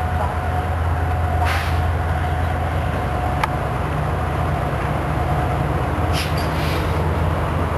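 Commuter train with an EMD F59PH-series diesel locomotive drawing slowly into a station platform, its engine giving a steady low drone. Short hisses of air come about a second and a half in and again around six seconds, and there is a single sharp click about three and a half seconds in.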